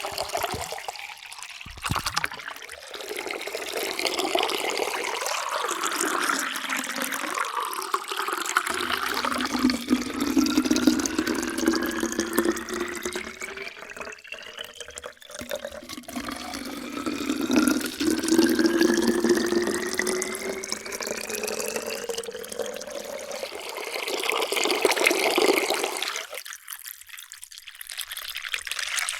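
Water pouring into a vessel, splashing and gurgling, with the ringing note of the filling vessel climbing steadily in pitch as it fills, twice in a row.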